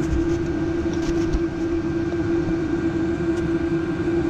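A steady mechanical hum, with a few light knocks and clicks about a second in.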